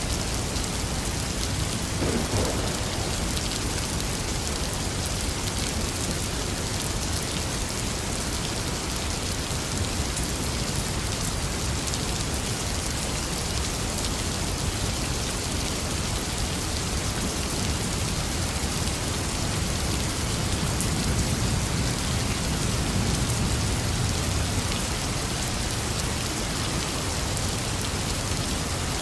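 Steady rain falling, an even hiss of drops, with a low rumble swelling for a few seconds about two-thirds of the way through.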